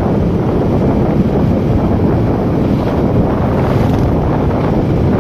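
Wind buffeting the microphone on a moving motorcycle, a steady rushing noise, with the motorcycle's engine and road noise running underneath.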